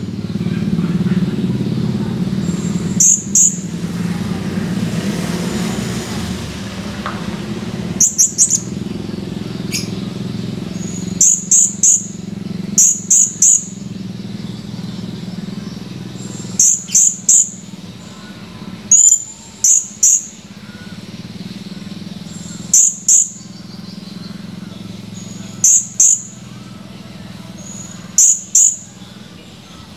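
Blue-crowned hanging parrot (serindit) calling: sharp, high-pitched chirps in quick pairs or triplets, repeated every few seconds, about a dozen times. Under the calls is a low steady hum that fades after about the middle.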